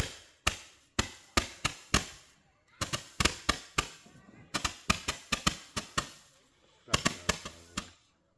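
Small ground fountain firework going off with sharp crackling pops in clusters, several a second, with short gaps between the clusters.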